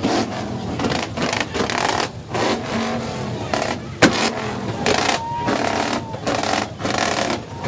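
Background voices mixed with car engines running, with a sharp click about four seconds in.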